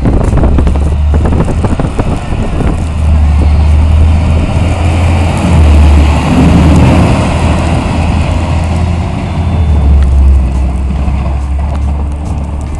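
Snow plow truck passing close by, its engine rumble loudest around the middle and easing off near the end.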